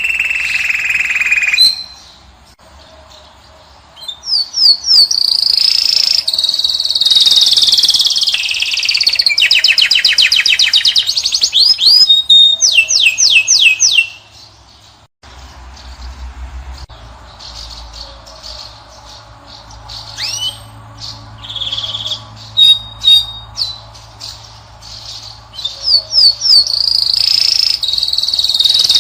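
European goldfinch singing: quick high chirps and fast buzzing trills in phrases. The song breaks off briefly after about two seconds, runs loud again, then goes much softer about halfway through over a low hum, and returns loud near the end.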